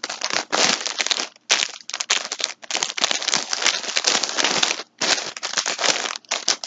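Packaging crinkling as it is handled, in several spells broken by brief pauses.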